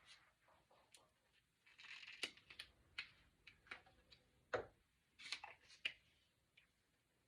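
Near silence with faint, scattered clicks and short rustles of small objects being handled, the sharpest click about four and a half seconds in.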